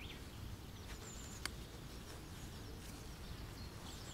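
Faint outdoor background with small birds chirping now and then, and a single sharp click about a second and a half in.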